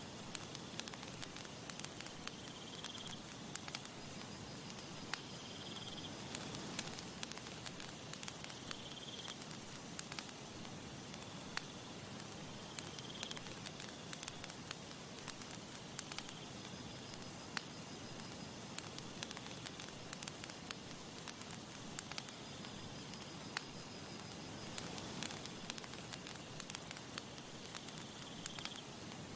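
Wood campfire crackling and popping, with many sharp snaps over a steady hiss of burning. Steady high insect chirring sounds behind it and comes and goes.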